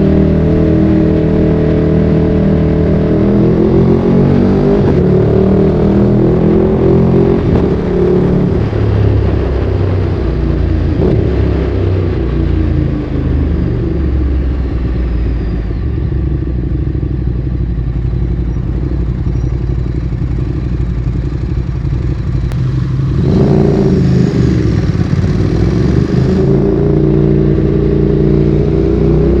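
Ducati Streetfighter 848's L-twin engine through a Termignoni exhaust, ridden on the road: revs rise and fall through the gears in the first several seconds, ease to a lower steady run, then climb sharply again about 23 seconds in.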